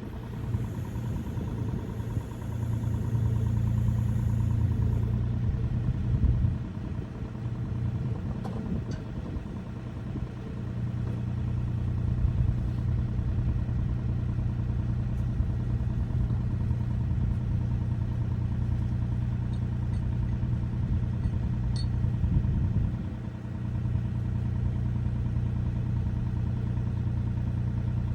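John Deere 27D mini excavator's diesel engine running steadily, swelling louder and easing back a couple of times as it works, with a couple of faint clicks.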